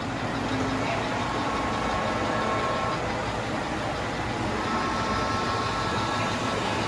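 Model train running on the club layout: a steady engine-like hum with faint steady tones.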